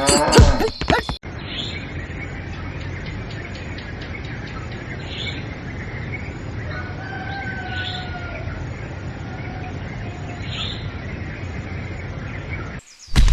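A springy cartoon 'boing' sound effect in the first second, then a steady outdoor background hiss with a few short, high bird chirps spaced a few seconds apart.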